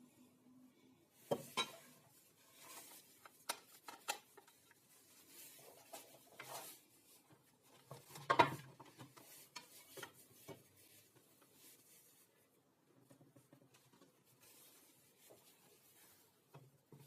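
Scattered light knocks, clicks and rubbing, as of tools and workpieces being handled on a workbench, with louder knocks about a second and a half in and about eight seconds in.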